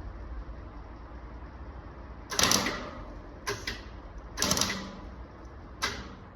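Welder laying tack welds on thin sheet steel: four short bursts, two of about half a second and two briefer, with the welder on its lowest setting and the thin metal prone to burning through.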